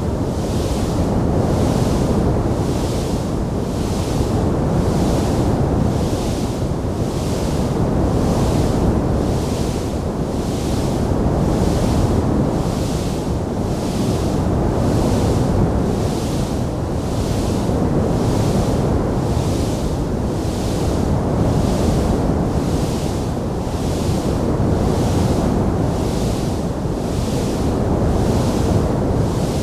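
Fire burning in a stone fireplace: a steady low roar with a hiss above it that swells and fades in an even pulse, with no distinct pops standing out.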